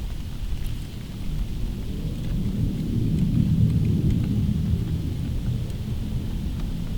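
Wind buffeting the microphone in a snowstorm: a low rumble that swells about three seconds in and then eases off, over a faint steady hiss.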